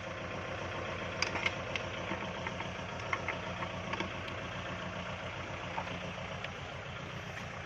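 Diesel tractor engine running steadily with an even low beat, as a tractor mired in mud tries to climb out. A few light clicks and knocks between about one and four seconds in.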